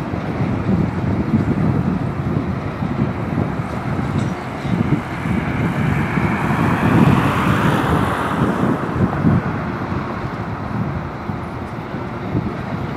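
Loaded coal hopper cars of a freight train rolling past: a steady low rumble of steel wheels on the rails. A higher hiss swells and fades around the middle.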